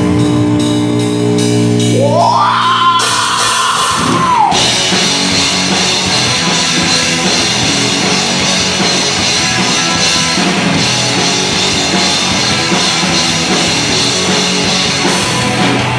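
Rock music with guitar and drums. Held chords give way to a rising glide about two seconds in, and then the full band plays on.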